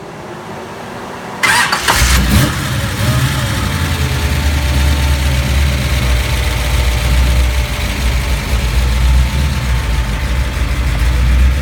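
Big-block 440 V8 of a 1968 Plymouth Satellite Road Runner tribute being started through its ceramic-coated headers. The starter cranks about a second and a half in and the engine fires within half a second. The revs flare briefly on catching, then settle into a steady, deep idle.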